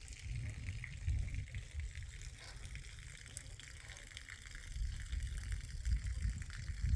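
Wind buffeting the microphone: an uneven, gusting low rumble with a faint crackly hiss above it.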